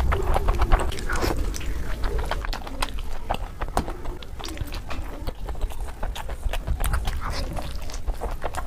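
Close-miked mukbang eating sounds: a mouth chewing and smacking through big mouthfuls of noodles and spicy fried food, as a dense run of short wet clicks.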